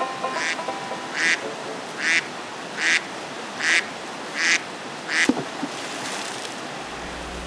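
A duck quacking, six rough calls evenly spaced a little under a second apart. A sharp click comes about five seconds in, and a low steady hum starts near the end.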